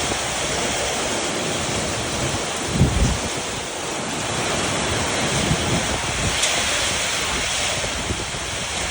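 Summer storm wind rushing steadily, with gusts buffeting the microphone, the strongest about three seconds in.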